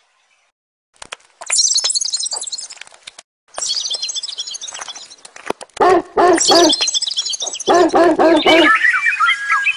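Rapid, high bird-like chirps and trills. From about six seconds in they are joined by louder, lower chattering calls repeated in quick runs. Near the end, mid-pitched chirps follow.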